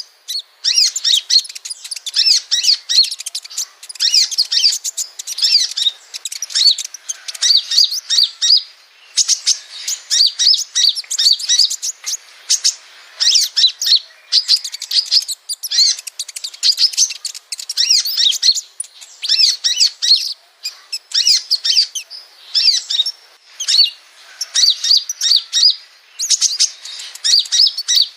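Sunbird song: rapid, high twittering phrases in quick bursts, one after another with short breaks between.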